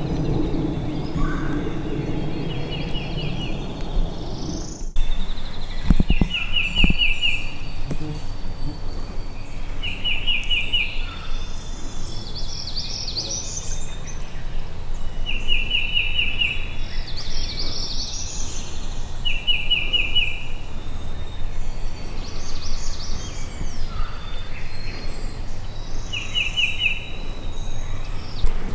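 Woodland birdsong: a short trill of evenly spaced notes repeats every few seconds among scattered higher chirps. A low train rumble fades out in the first few seconds.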